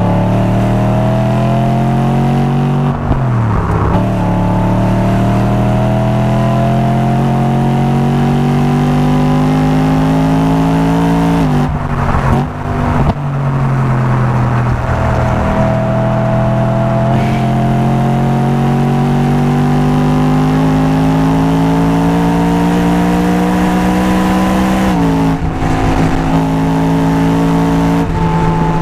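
A performance car's engine and exhaust under hard acceleration on track, heard onboard. The engine note climbs steadily for long stretches and drops sharply at gear changes about 3, 12 and 25 seconds in, with a brief lift off the throttle around 12 seconds.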